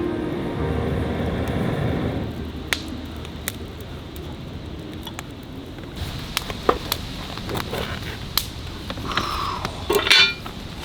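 Scattered clinks and knocks of cookware and utensils, over a low rumble in the first couple of seconds, with a brief louder clatter near the end.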